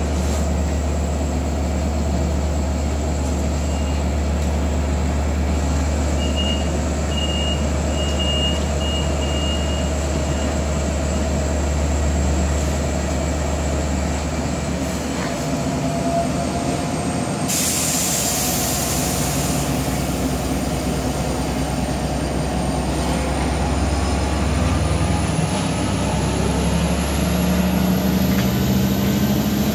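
Long Island Rail Road diesel train with bilevel coaches standing at the platform, its engine running with a steady low hum. A run of short beeps sounds a few seconds in, and a burst of air hiss comes a little past the middle, typical of the air brakes releasing. A rising whine follows, and the sound grows louder near the end as the train starts to pull out.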